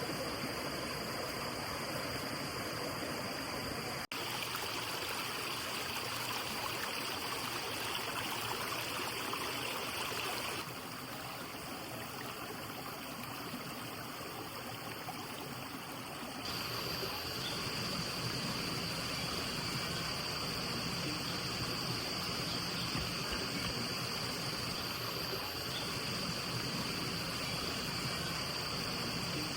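Stream water flowing steadily over rocks, with a steady high-pitched tone above it. The sound changes abruptly about 4, 11 and 16 seconds in.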